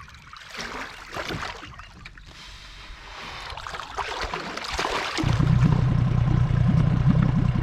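Water lapping and splashing gently against a small boat's hull, then, about five seconds in, a boat's outboard motor running with a steady low drone.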